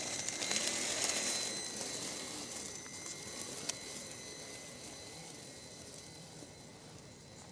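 Electric RC scale crawler truck driving over forest ground, with a steady motor and gear whine and crackling from the tyres, fading steadily as it moves away.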